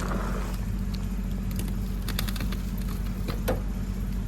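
Ride-on 1/8-scale train rolling slowly on its track: a steady low hum with scattered light clicks and rattles of wheels and couplers, one slightly louder clack near the end.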